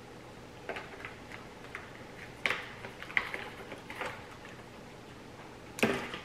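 Close-miked chewing and mouth sounds of a person eating: irregular soft wet clicks and smacks, with louder ones about two and a half seconds in, about three seconds in and near the end.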